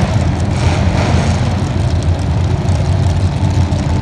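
A racing vehicle's engine running at a steady, low pitch.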